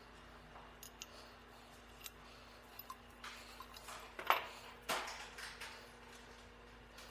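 Scattered metallic clinks and knocks of tools and metal parts being handled, the two loudest knocks a little past the middle, over a steady low hum.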